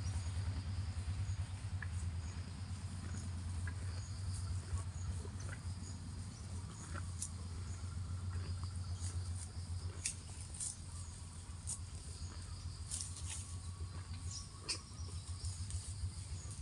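Cow grazing: irregular crisp tearing and crunching of grass as it crops and chews, over a steady low hum, with insects chirping faintly in the background.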